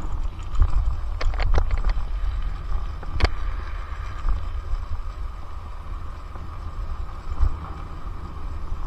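Wind buffeting the microphone of a helmet-mounted action camera on a moving electric mountain bike, a steady low rumble with road noise. A few sharp knocks from the bike come about a second and a half in, and a single stronger one about three seconds in.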